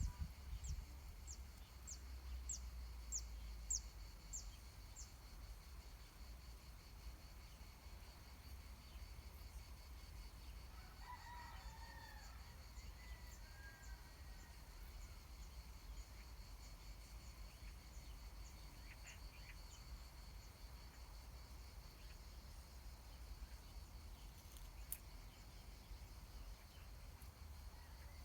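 Faint outdoor farm ambience with a distant rooster crowing once about eleven seconds in, over a steady high-pitched hum. A run of quick high chirps comes in the first few seconds.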